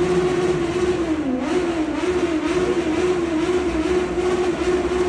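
Kawasaki Z900 motorcycle engines revved and held at high revs in a road tunnel, the pitch wavering slightly, with a short dip about a second and a half in.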